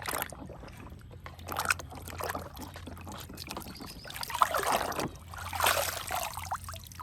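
Water pouring and splashing over a muddy toy car as it is washed, coming in uneven surges, over a faint steady low hum.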